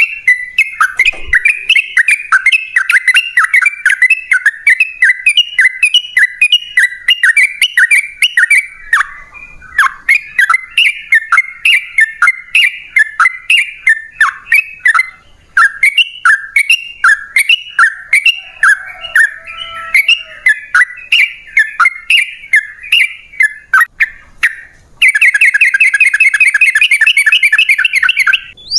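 Yellow-vented bulbul singing its long rolling chatter: a fast, unbroken run of bubbly repeated notes, broken by brief pauses, that turns into a denser, quicker trill near the end.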